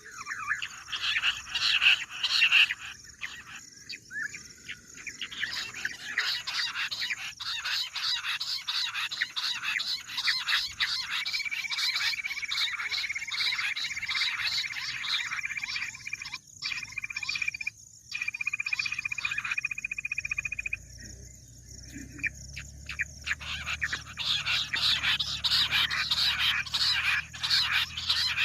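Dense chorus of rapid, repeated chirping calls of bush quail, a call track used to lure quail. For about ten seconds in the middle a steady high trill runs under the chirps, and a low hum comes in near the end.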